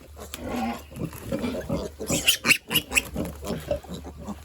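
Pigs grunting in short repeated calls, with a few sharp high squeals about two seconds in, over a steady low hum.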